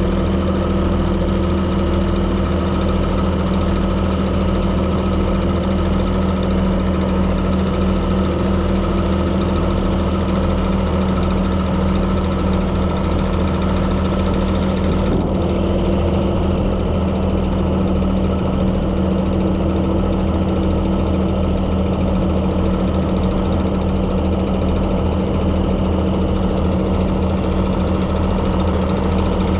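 Heavy diesel truck engine idling steadily with a low, even hum while a dump truck is winched onto a Landoll trailer.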